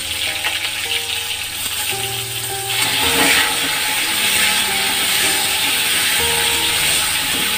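Whole pointed gourds sizzling as they fry in hot oil in a kadai, with background music playing over it.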